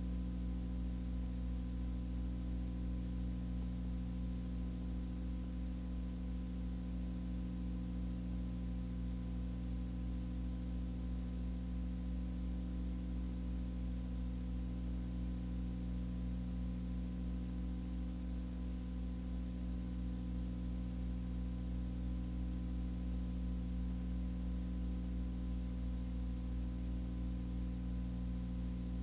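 Steady low hum made of several constant tones, with an even hiss over it.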